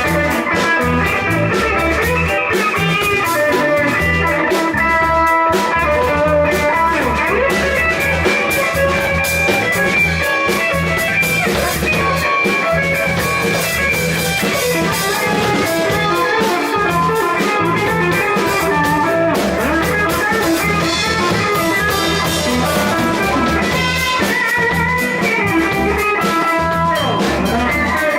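Band music with electric guitar playing over a drum kit, a blues-style instrumental passage with no singing.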